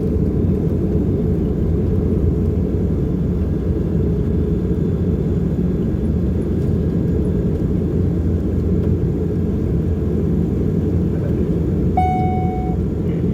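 Steady low cabin rumble of an Embraer EMB-120's twin turboprop engines. Near the end, a single short chime tone sounds.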